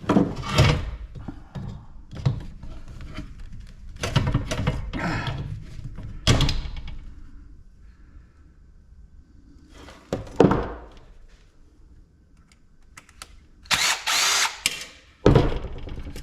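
Metal scrap parts and hand tools clanking and thunking irregularly as an ice maker is dismantled for its copper, with a longer scraping stretch about four seconds in and a loud bright clatter near the end.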